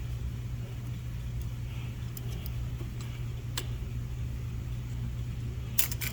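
Steady low hum of machine-shop equipment running, with a few light metallic clicks and taps, a short cluster of them near the end.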